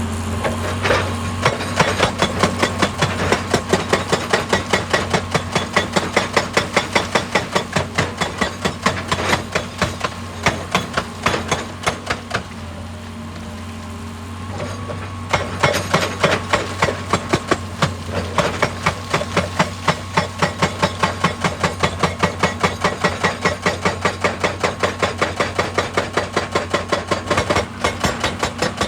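Excavator-mounted hydraulic breaker hammering rock in rapid, even blows, about four a second, over the steady hum of the excavator's engine. The hammering stops for about two seconds near the middle, then starts again.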